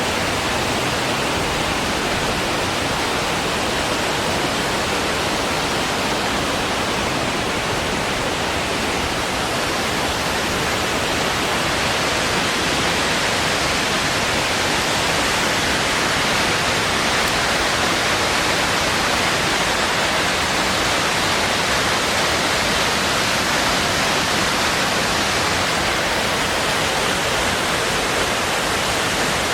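Gendayu Falls, a mountain waterfall, pouring with a steady, even rush of falling water.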